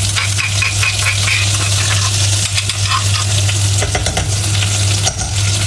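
Pounded onion paste sizzling as it hits hot oil in a pan, with a spoon scraping it out of a mortar in quick strokes near the start and a few clinks later, over a steady low hum.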